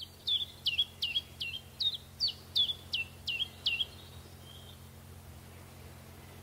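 Common chiffchaff singing: a run of about ten short, sharp notes, each falling in pitch, repeated at an even pace of about two and a half a second. The song stops a little over halfway through.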